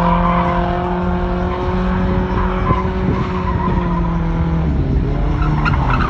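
Truck engine held at high revs in a burnout, its tyres spinning and screeching on the pavement. The engine note holds steady, then drops a little near the end.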